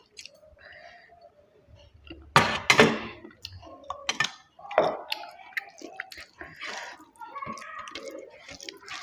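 Close-miked eating sounds: chewing and mouth noises, with two loud crunches about two and a half seconds in, followed by more irregular smaller chewing sounds.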